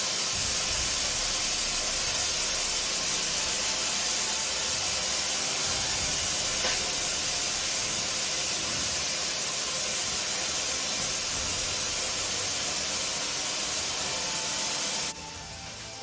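Pressure cooker venting steam in a steady, loud hiss as its pressure is let out before opening. The hiss cuts off suddenly about fifteen seconds in.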